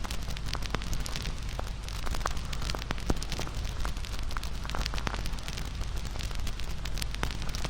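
Wood fire crackling and popping: many small, irregular snaps over a steady low rush of burning.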